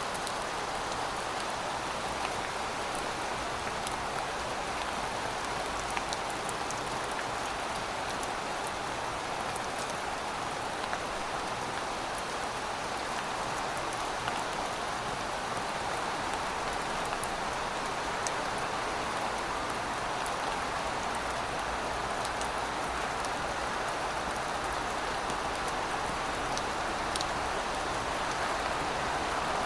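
Heavy rain falling steadily: an even hiss flecked with many small, sharp drop ticks.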